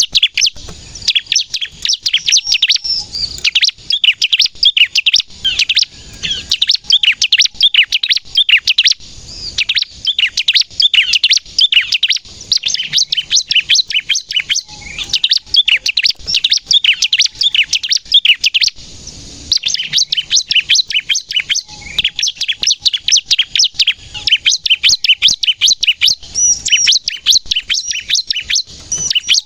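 Bar-winged prinia (ciblek) singing in full voice, fast strings of sharp, high-pitched chirps, the rapid 'nembak' song, with brief pauses about nine and nineteen seconds in.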